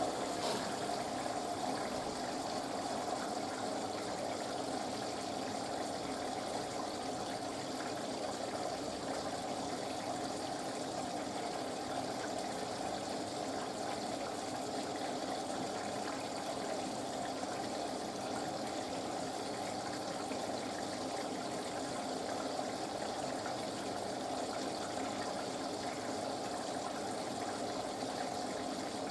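Panasonic washing machine on its wool cycle, water rushing steadily through the machine.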